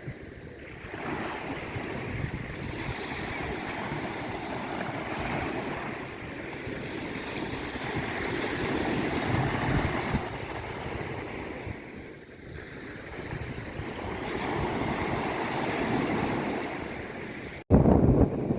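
Sea waves washing onto a shore: a steady rush of surf that swells and falls back over several seconds. A split-second break near the end is followed by louder surf.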